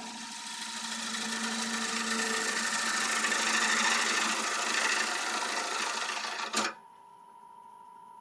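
A gouge cutting into a spinning applewood bowl on a wood lathe: a steady noisy hiss of cutting over the lathe motor's whine, building toward the middle. It stops abruptly with a knock a little over six seconds in, leaving only the motor whine.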